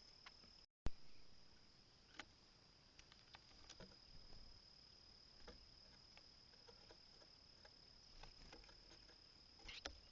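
Steady high-pitched trill of crickets or similar insects, with a sharp click just under a second in and faint scattered ticks and taps afterwards.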